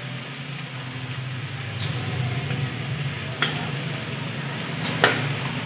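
Spiced cauliflower filling sizzling steadily in hot oil in a kadhai, with a couple of light clicks about halfway through and near the end.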